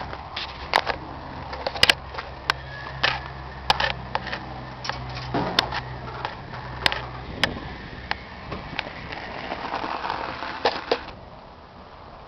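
A steady low mechanical hum that stops about seven seconds in, under a series of sharp clicks and knocks.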